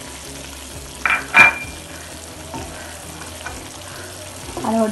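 Prawns and tomato paste sizzling gently in a frying pan as a slotted wooden spatula stirs in turmeric powder, with two sharp knocks of the spatula against the pan a little over a second in.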